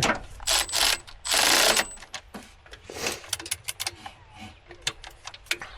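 Metal hand tools and parts clinking and clicking in quick, irregular knocks during engine work, with two short rushing noises in the first two seconds.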